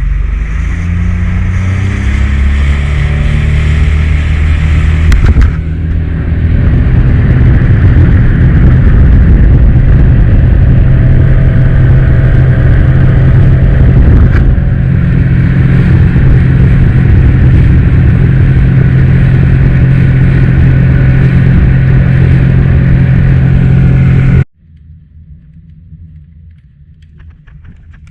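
A small fishing boat's outboard motor speeding up, its pitch rising over the first five or six seconds, then running steadily and loudly at cruising speed with a rush of noise. It cuts off suddenly near the end, leaving only a faint, quieter sound.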